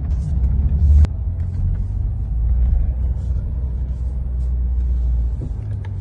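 Steady low rumble of a car, with a short sharp knock about a second in.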